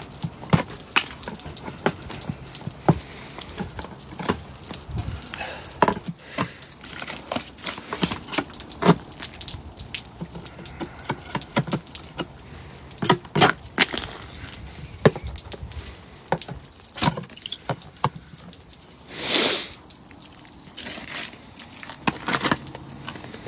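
Ice being chipped off a car with a metal spike: irregular sharp knocks and cracks, with a longer rasping noise about three-quarters of the way through.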